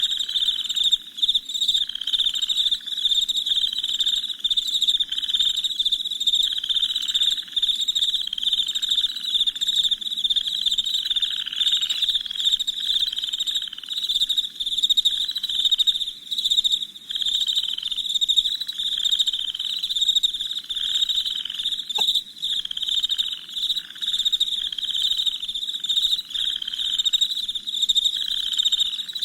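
Crickets chirping in a dense, continuous high-pitched trill, with a lower-pitched call repeating about once or twice a second underneath.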